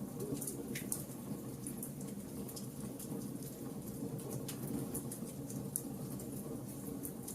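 Wood fire burning with a steady low rush of flames and frequent irregular crackles and pops from the burning wood.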